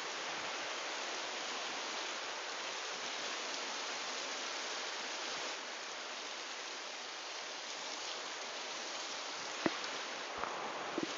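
Steady rain falling, an even hiss. Near the end come a few sharp drips or taps.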